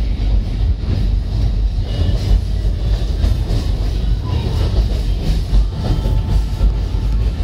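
Alishan Forest Railway narrow-gauge passenger carriage running along the track, heard from inside the car: a steady low rumble of wheels on rails, with a short faint high squeal about four and a half seconds in.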